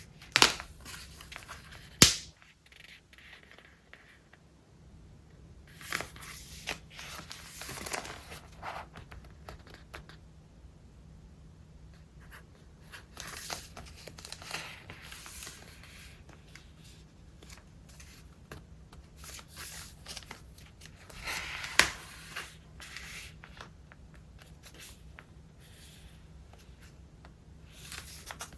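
Pages of a thick, collage-stuffed traveler's notebook being turned one after another: papery swishes and crinkles, with a few sharp snaps as pages flip over.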